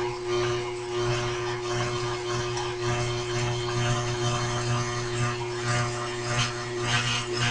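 Machine spindle running with a twist drill bit cutting into metal: a steady hum under a scratchy cutting noise, as the bit nears breaking through the part.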